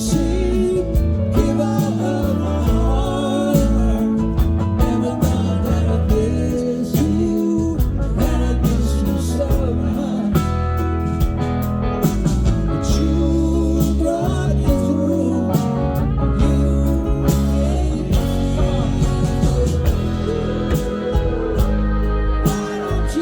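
Live rock band playing a song, with a lead vocal, guitars, bass and drums.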